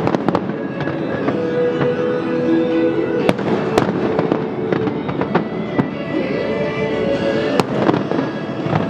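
Fireworks bursting in a string of sharp bangs, a few standing out louder than the rest, over music with long held notes.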